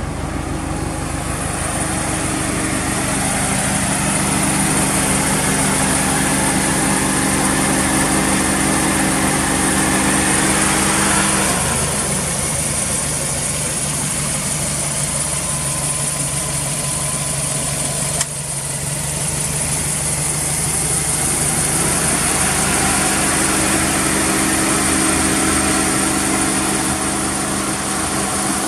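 Subaru Impreza WRX STi (GDB) turbocharged flat-four engine idling steadily, heard close at the open engine bay. Its pitch dips slightly about twelve seconds in and rises back again about ten seconds later.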